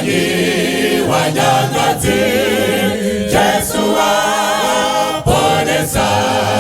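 A cappella vocal group singing a Shona gospel hymn in several-part harmony, with a sustained low bass part under the upper voices and phrases breaking about once a second.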